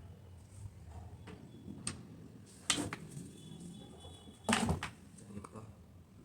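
Cloth being handled and worked on for a helmet liner: a few soft clicks and two louder brief scraping rustles, about three seconds and four and a half seconds in.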